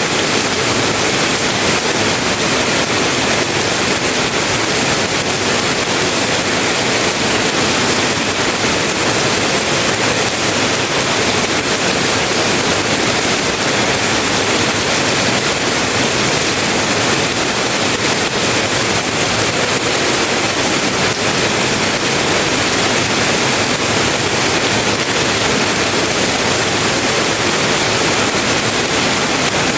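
Heavy rain falling, an even, dense hiss that holds steady throughout.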